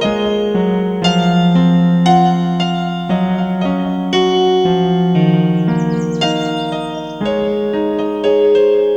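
Instrumental song intro on electric piano: sustained chords changing about once a second over a wavering bass note. Faint bird chirps are laid over the music a little past the middle.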